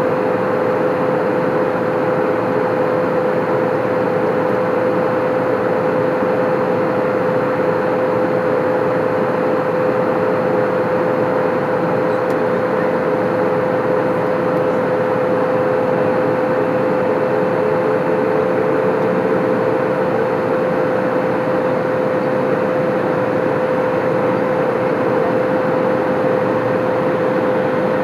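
Airbus A320 cabin noise in descent: a steady rush of airflow with a constant engine hum, one clear steady tone and a slightly lower one that wavers against it.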